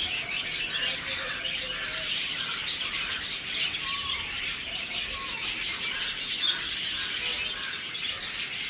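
Budgerigars chirping and chattering, a dense run of overlapping high chirps and warbles.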